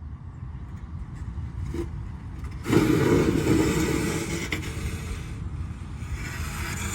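Vehicle engine running with a steady low rumble, then suddenly revving hard with a rough rushing, scraping noise about three seconds in, easing off and picking up again near the end, as of a vehicle pushing a plow through dirt.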